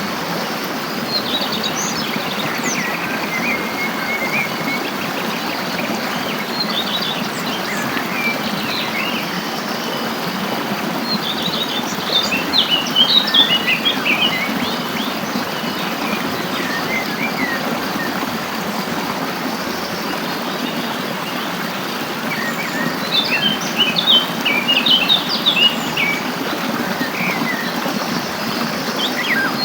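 Small songbirds chirping and twittering in quick clusters, busiest about twelve to fourteen seconds in and again around twenty-three to twenty-six seconds, over a steady rush of flowing water.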